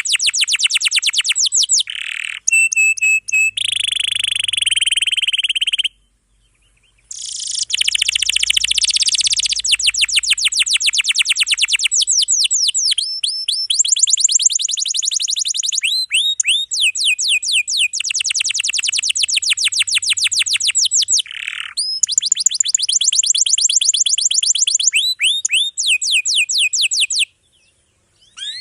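Domestic canary singing long rolls: dense runs of fast, rapidly repeated trill notes, switching to a new roll every few seconds. The song stops briefly about six seconds in and again near the end.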